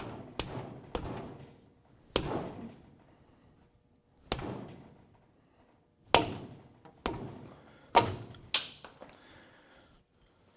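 Sharp metal knocks, about eight at uneven intervals, each ringing briefly, as the old axle seal is worked out of the end of a GM 12-bolt rear axle housing.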